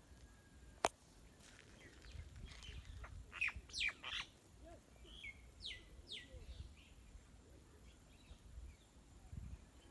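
Wild birds calling: a run of quick chirps, each sweeping downward in pitch, clustered between about three and six seconds in. A single sharp click about a second in is the loudest sound.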